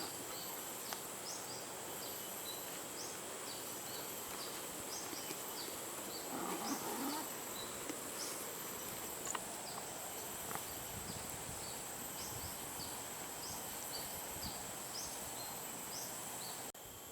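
Outdoor ambience of insects: a steady high-pitched drone, with many short, high chirps scattered irregularly throughout.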